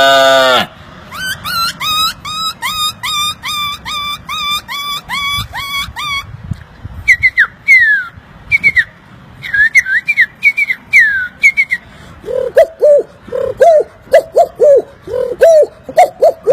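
A man's mouth-made animal imitations: the tail of a cow's moo, then a run of rising whistled bird chirps about two a second, then short falling whistles with clicks, and in the last few seconds a repeated low cooing like a pigeon.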